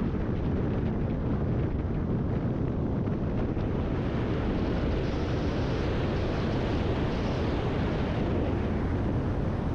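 Riding on a Kawasaki ZX-10R sport bike: steady wind rush on the camera microphone over the motorcycle's running noise. A higher hiss swells about halfway through and fades again near the end.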